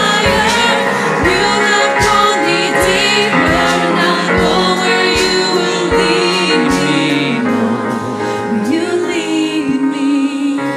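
Live worship band with a female lead vocal and choir singing over a steady drum beat; the drums drop out about seven seconds in, leaving held voices over keyboard.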